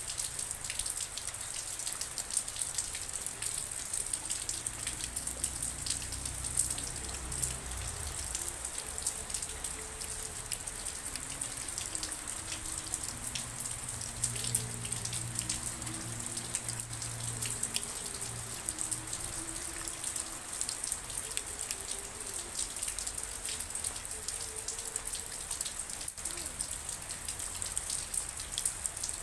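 Steady rain falling, a constant hiss filled with many individual drop ticks.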